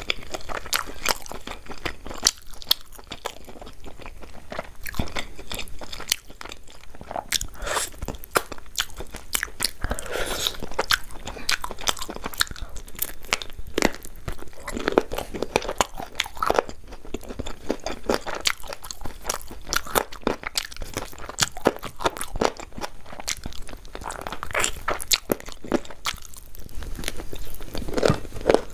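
A person chewing and biting food close to the microphone, a dense run of irregular crunches and mouth clicks.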